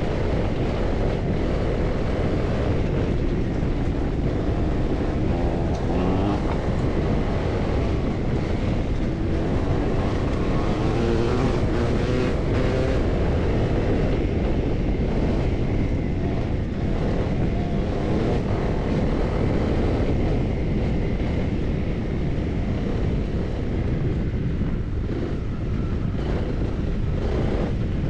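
Honda CRF300L's single-cylinder four-stroke engine running while riding, its note rising and falling with the throttle several times in the first half, over steady wind noise on the microphone.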